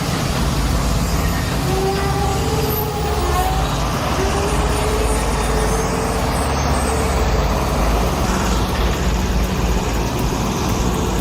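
Heavy-haul truck's diesel engine running steadily under load, a deep continuous rumble, with faint whining tones coming and going in the middle.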